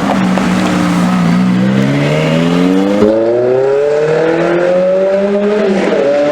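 Ferrari engine accelerating, its pitch climbing steadily for several seconds, then dropping sharply near the end at a gear change before rising again.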